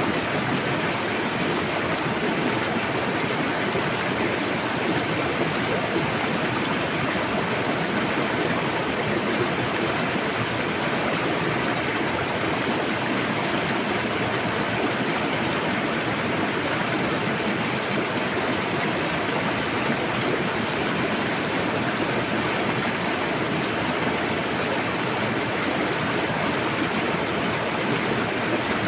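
River water rushing steadily: an even, unbroken noise with nothing standing out.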